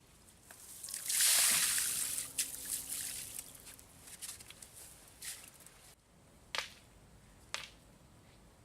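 Pond water splashing: a sudden splash about a second in that dies away over a few seconds into smaller splashes and drips, then two single drops or plops near the end.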